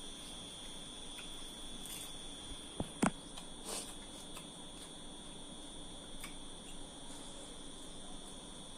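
Steady high-pitched drone of insects, with two sharp clicks close together about three seconds in.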